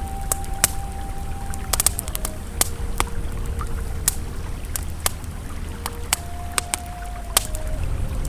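Campfire crackling with sharp, irregular pops over the steady low rush of a flowing river, with faint held tones of soft ambient music underneath.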